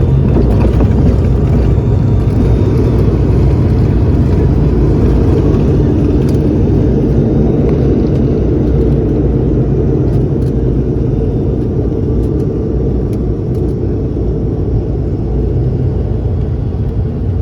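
Airliner cabin noise during landing: a loud, steady rumble of engines and airflow heard from inside the passenger cabin, easing slightly near the end.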